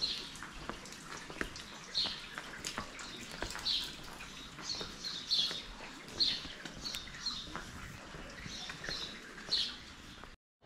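Small birds chirping: short high chirps, often in pairs, every half second to a second, over faint scattered ticks. The sound cuts out for a moment near the end.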